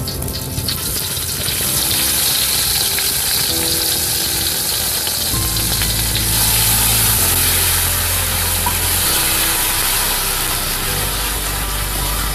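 Spice paste frying in hot oil in a steel wok, sizzling steadily as a spatula stirs it; the sizzle swells over the first two seconds as the paste goes in. Background music with a bass line comes in about five seconds in.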